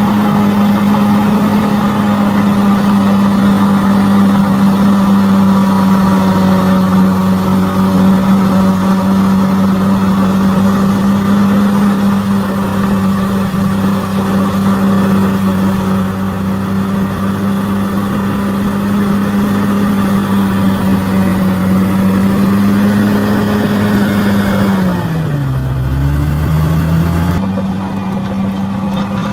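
Bulldozer's diesel engine running steadily at high revs. About 25 seconds in the revs dip sharply and climb back, with a brief low rumble.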